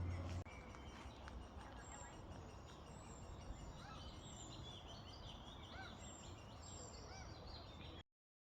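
Small birds chirping and calling over a steady outdoor background hiss. A low hum cuts off about half a second in, and all sound stops abruptly near the end.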